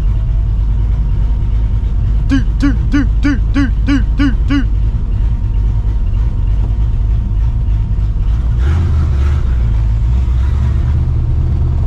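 Straight-piped, Procharged 5.4-litre V8 of a 1999 Mustang GT rumbling at low speed, a little louder from about two-thirds of the way in. About two seconds in, a run of about eight quick rising-and-falling chirps sounds over it.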